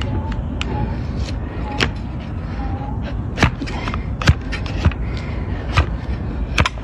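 A donkey's hoof horn being cut with hoof-trimming tools, giving a series of sharp, irregularly spaced snaps over a steady low background rumble.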